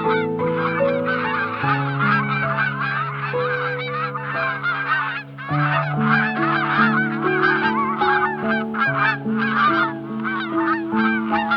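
Dense chorus of many birds calling over one another without pause, over background music of slow sustained chords.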